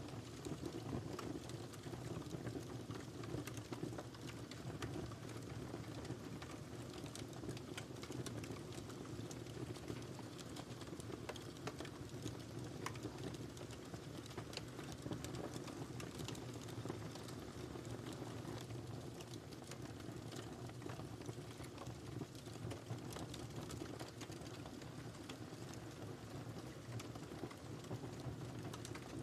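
Wood fire burning in a fireplace: a steady low rush of flames with frequent small, sharp crackles and pops scattered throughout.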